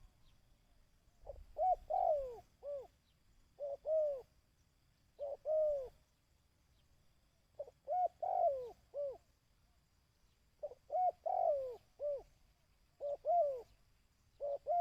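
A dove cooing in repeated short phrases of two to four curved notes, a phrase every one to three seconds: a call used to lure wild doves to a decoy.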